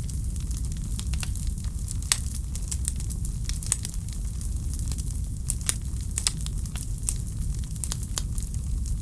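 Wood fire in a fireplace crackling, with frequent sharp snaps and pops, a few louder than the rest, over a steady low rumble.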